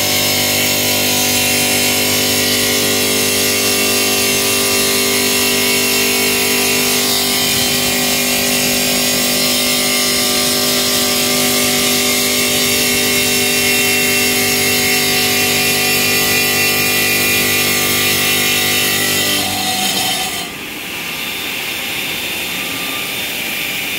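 Stone-cutting CNC machine running with a steady whine of several tones. About twenty seconds in the tones cut out and a steady hiss is left.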